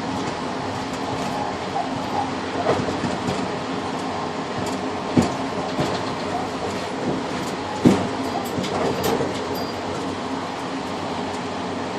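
Passenger train running, heard from inside a rail car: a steady rumble with scattered clicks and two louder knocks from the wheels and running gear, about five and eight seconds in.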